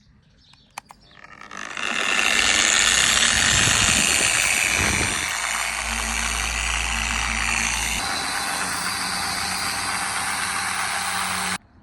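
Small dual-action (DA) polisher running with a hard pad on a headlight lens, cutting with heavy-cut compound. It starts up about a second and a half in, runs steadily, and cuts off abruptly near the end.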